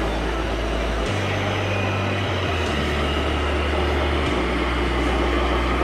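Radio-controlled model trucks running, with a deep engine-like drone that jumps abruptly between pitches a few times, over a steady background of noise.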